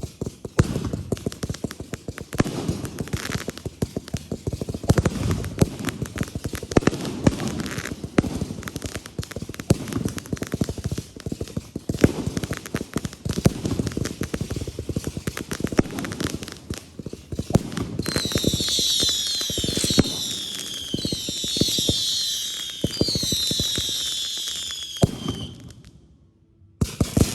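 Consumer fireworks going off: dense rapid crackling and popping throughout, joined about two-thirds in by several falling whistles from whistling effects. The sound cuts off suddenly just before the end.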